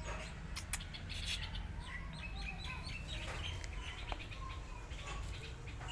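Small birds chirping in short, quick notes, over a steady low rumble, with a couple of sharp clicks.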